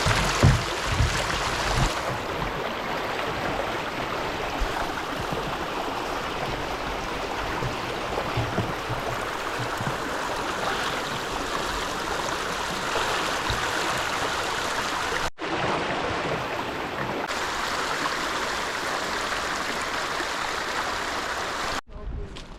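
Steady rushing of a stream, with a few low thumps in the first couple of seconds; the sound cuts out abruptly for an instant about two-thirds of the way through and again near the end.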